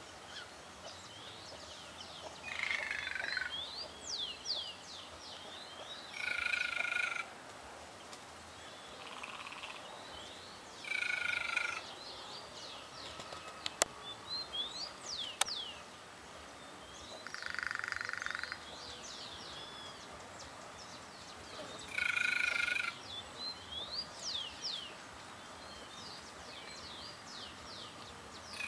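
White-naped jay (gralha-cancã) calling, with about five calls about a second long spread every few seconds. Other small birds give short high chirps throughout, and two sharp clicks come near the middle.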